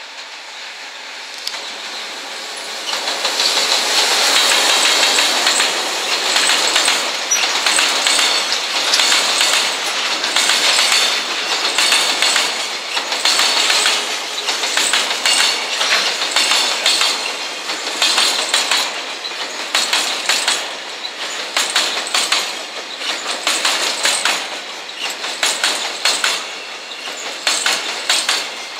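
Electric freight locomotive and its container train passing at speed: a rushing sound of wheels on rail that grows louder over the first few seconds as the locomotive draws level, then the container flatcars' wheels clicking over track joints in quick groups as the wagons roll by.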